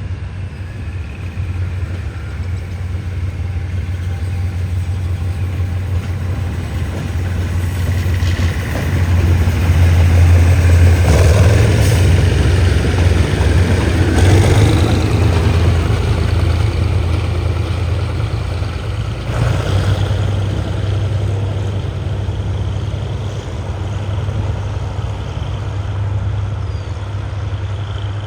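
Diesel locomotive engine running with a steady low hum, growing louder to a peak about ten to fifteen seconds in, then easing off.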